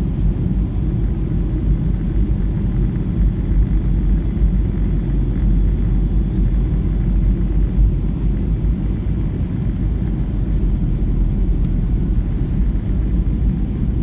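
Airplane's steady, unbroken low rumble of engines and rushing air.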